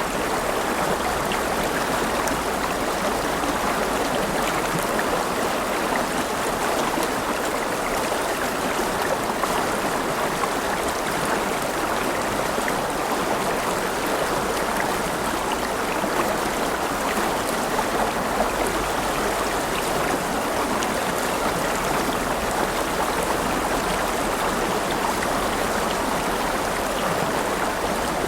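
River water flowing over stones, a steady rushing and babbling with small splashes.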